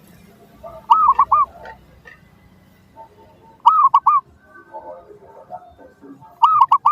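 Zebra dove (perkutut) cooing: three short phrases of quick, bubbling arched notes, repeated about every two and a half seconds.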